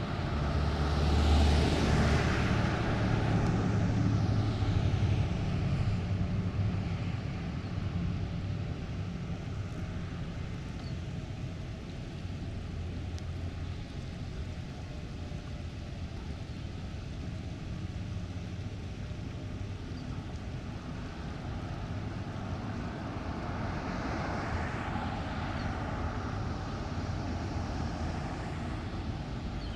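Vehicles passing on a residential street: one goes by loudly about two seconds in, a low rumble carries on for a while afterwards, and another passes more softly near the end.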